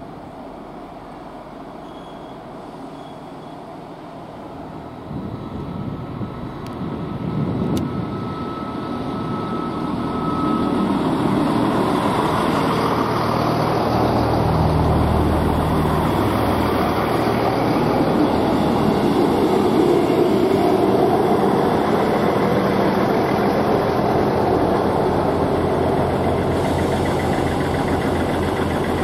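East Midlands Trains Class 222 Meridian diesel multiple unit passing close along the platform. Its rumble rises from about five seconds in and then runs loud and steady as the carriages go by, with the low hum of the diesel engines underneath.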